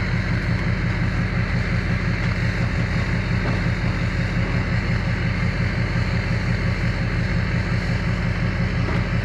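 A vehicle engine idling steadily close by, with an even, fast low pulse that does not change.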